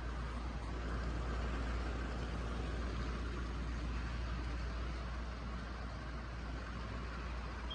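HO scale TYCO model trains running on the layout: a steady hum and rumble from the motors and the wheels on the track.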